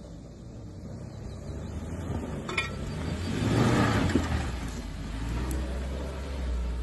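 Fourth-generation Suzuki Jimny's engine pulling the 4x4 up a grassy slope, growing louder as it comes close about three to four seconds in, then easing a little. A couple of sharp clicks are heard along the way.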